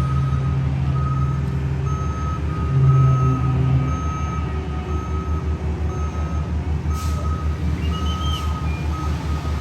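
Backup alarm on heavy paving equipment beeping repeatedly while it reverses, over the steady drone of a diesel engine that swells briefly about three seconds in.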